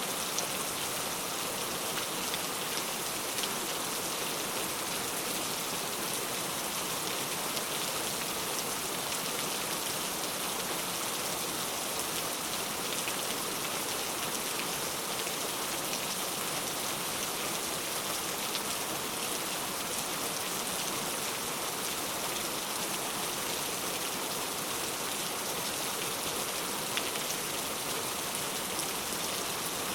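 Steady rain falling, a dense even hiss of drops with fine pattering, unchanging throughout.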